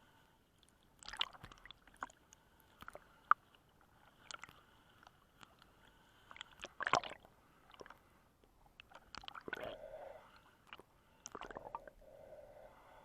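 Muffled underwater sound: scattered sharp clicks and crackles with soft squishy gurgles of water, the strongest pop about three seconds in and a louder gurgling cluster about seven seconds in.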